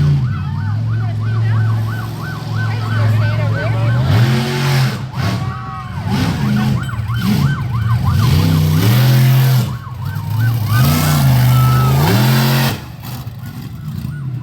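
Monster truck engine revving up and down repeatedly, with a warbling siren-like tone pulsing about three times a second above it for most of the time. The engine noise drops away near the end.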